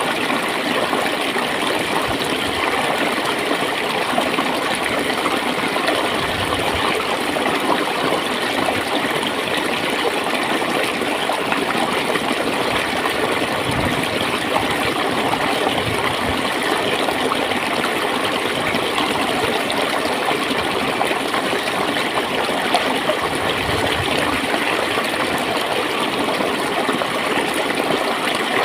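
Water flowing and gurgling steadily over stones in a shallow stream.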